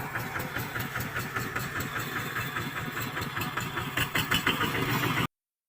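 Small Kubota tractor's diesel engine running with a quick, even beat, growing louder about four seconds in. The sound cuts off abruptly near the end.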